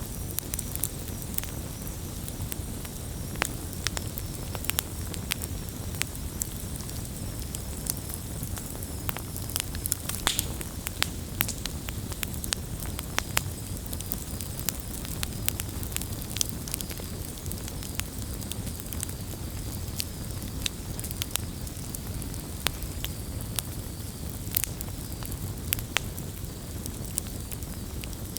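Wood bonfire burning: a steady low rumble with frequent sharp crackles and pops at irregular intervals.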